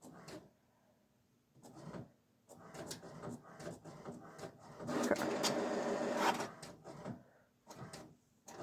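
A printer running: its mechanism starts up about two and a half seconds in, is loudest from about five to six and a half seconds, then dies away.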